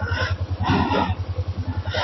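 Kawasaki ER-6f's parallel-twin engine running with a steady, low pulsing exhaust beat. Short bursts of rushing noise come over it, about a second apart.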